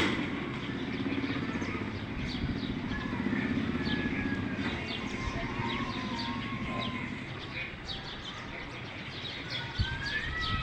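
Small birds chirping and calling, with quick repeated chirps and a few longer whistled glides, over a low steady rumble that fades after the first half; a single short thump near the end.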